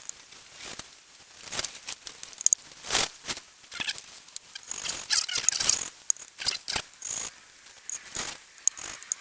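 A valve being lapped into its seat in a Mini 1293 A-series cylinder head with fine grinding paste: the lapping stick is twisted back and forth, and the paste grinds between valve and seat in gritty rasping strokes that come in irregular bursts.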